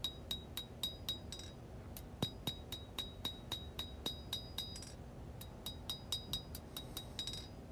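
Hand hammer striking hot 1095 high-carbon steel on an anvil to forge a blade bevel. The blows are quick and steady, about four or five a second, each with a bright metallic ring, and they stop briefly twice.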